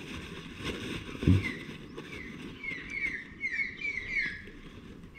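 A bird calling in a run of short, quick, falling chirps, repeated many times, over faint handling noise with one soft thump about a second in.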